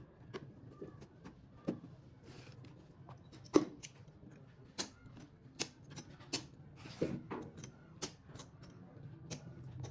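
Irregular sharp clicks and taps of small hard objects being handled, about one or two a second, the loudest a little over a third of the way in, over a faint low hum.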